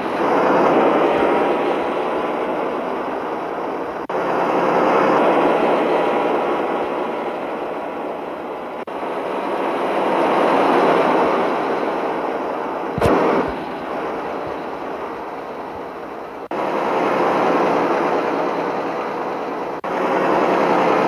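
Mitsubishi Fuso truck running, its engine and road noise swelling and fading in several short shots cut together. A single sharp bang comes about thirteen seconds in.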